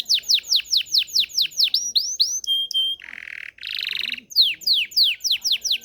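Domestic canary (Belgian canary) singing: fast runs of rapid downward-sweeping whistled notes, about eight a second, broken about three seconds in by a short buzzy trill before the quick sweeps resume.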